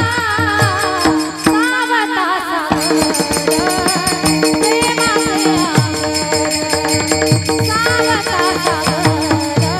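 Kirtan accompaniment music: a steady sustained drone, drum strokes that drop in pitch, constant jingling of small hand cymbals, and a wavering melody line above.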